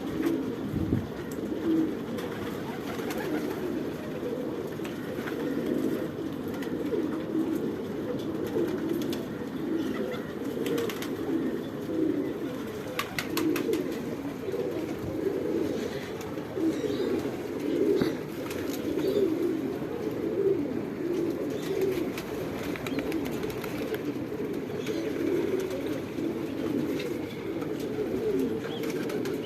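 Domestic pigeons cooing without a break, several birds overlapping in a pulsing low chorus. A few sharp clicks come about thirteen seconds in.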